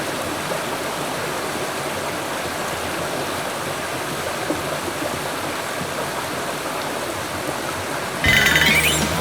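Steady rush of a mountain stream's flowing water. About eight seconds in, background music comes in suddenly with a sweeping high whoosh.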